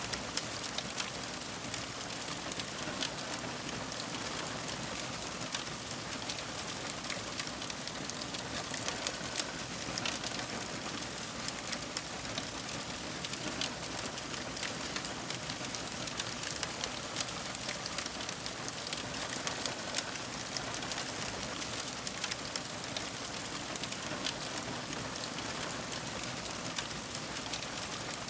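Fire crackling: a constant hiss with frequent small, sharp pops and snaps.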